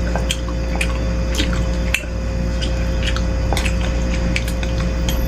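Close-miked wet eating sounds of a person chewing beef meatball soup and rice: irregular sharp mouth clicks and squishes, about a dozen in five seconds, over a steady electrical hum.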